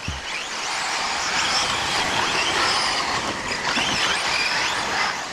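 Several 4WD short course RC trucks racing on a dirt track: overlapping high motor whines rising and falling in pitch as they speed up and slow down, over a steady hiss of tyres on dirt.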